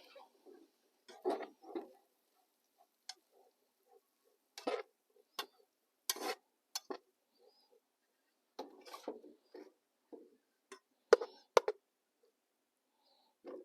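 Scattered light clicks and knocks of small objects being handled, about a dozen short sounds spread unevenly, with near silence between them.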